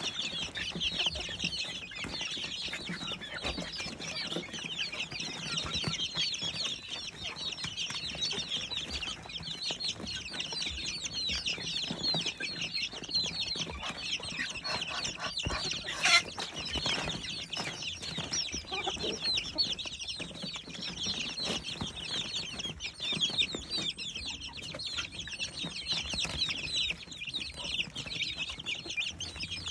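A flock of young chicks peeping continuously in many overlapping short high calls, with one louder call about halfway through.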